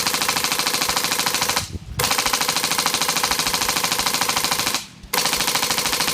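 Viva Arms M1919 airsoft machine gun with a PolarStar Fusion Engine, running on compressed air from a tank, firing full-auto in three long bursts with short breaks about two and five seconds in. Its rate of fire is set lower, aiming at a more realistic 10 to 15 rounds per second.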